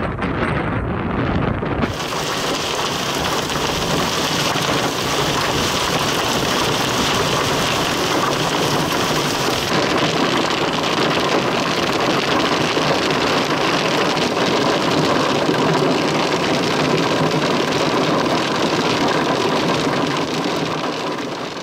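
Wind buffeting the microphone for about two seconds, then heavy wind-driven rain pelting a vehicle's windshield and body as a steady, loud hiss.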